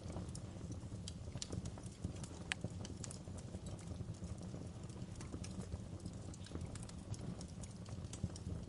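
Wood fire in a fireplace crackling, with sharp pops coming irregularly over a steady low rumble.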